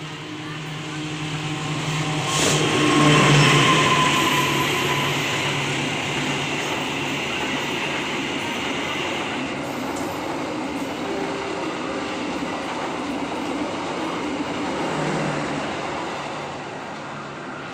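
A passenger train hauled by a CC 206 diesel-electric locomotive passing close by. The sound swells to its loudest about three seconds in as the locomotive goes by, then the coaches roll past with a steady rumble and wheel noise that fades near the end.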